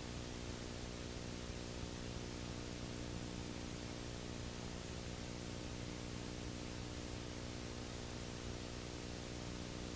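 Steady electrical hum with many overtones under a constant even hiss. Nothing else stands out and nothing changes.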